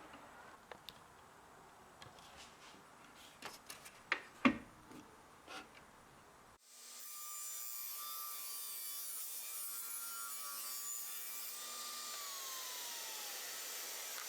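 Light knocks of wood pieces being handled. About halfway through, a steady whirring power-tool noise starts abruptly, and near the end one of its tones slides down as it winds down.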